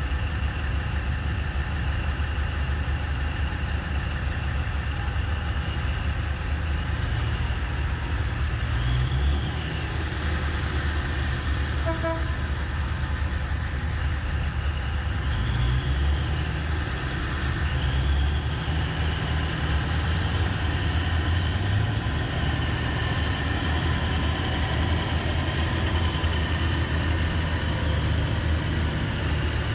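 Komatsu 730E haul truck's big diesel engine running steadily with a deep rumble and a steady high whine, revving up briefly a few times.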